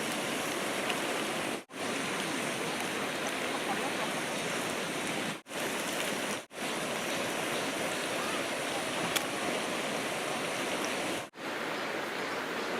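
A mountain valley stream rushing steadily over rocks. The sound drops out abruptly for a split second four times.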